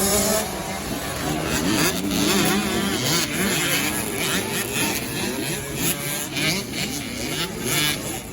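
Several 65cc two-stroke motocross bikes racing, their engines revving up and down with overlapping pitches that rise and fall over one another.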